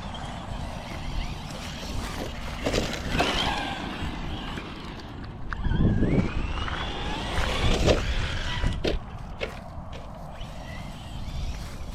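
Arrma Vorteks 223 RC stadium truck running on its brushless 2400kV motor and Hobbywing MAX10 G2 system, the motor whine rising and falling in pitch as it speeds up and slows, over a steady low rumble. A few sharp knocks come about nine seconds in.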